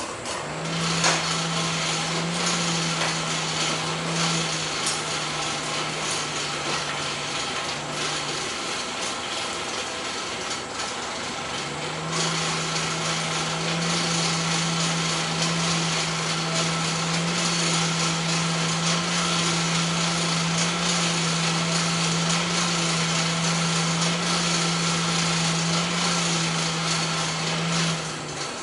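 A motor-driven shop tool running with a steady hum over a loud hiss. The hum stops about eight seconds in and starts again about four seconds later, while the hiss carries on.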